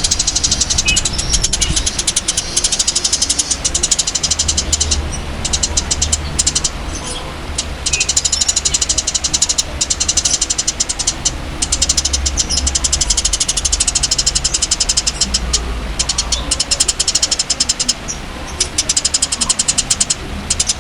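A songbird's high-pitched, very fast ticking trill, repeated in long runs broken by short pauses, over a steady low hum from the recording.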